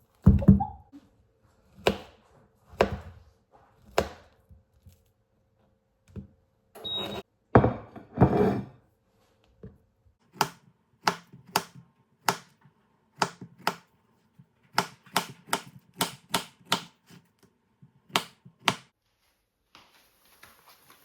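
Kitchen food-preparation sounds: a few heavy thumps and handling noise, then a run of sharp knocks about one or two a second that stops near the end, typical of a knife on a cutting board.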